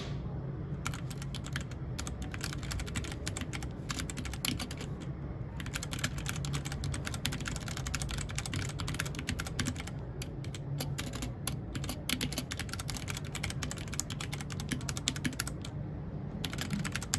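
Mechanical keyboard being typed on in steady runs of key clicks, broken by a few short pauses, over a faint low hum.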